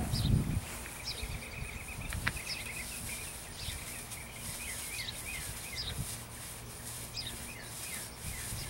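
Small birds chirping: short high chirps and quick down-slurred notes every second or so, with a fast run of repeated notes between about one and a half and three seconds in, over a faint steady low hum.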